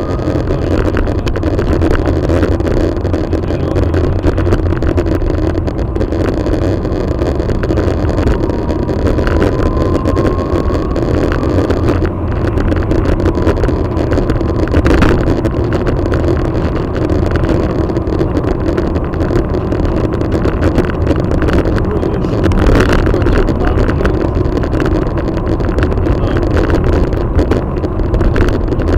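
Steady low rumble of a car heard from inside its cabin, with a couple of brief knocks.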